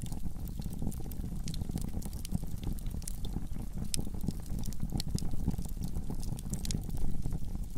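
Wood fire burning in a fireplace: irregular sharp crackles and pops over a steady low rumble, a little louder near the end.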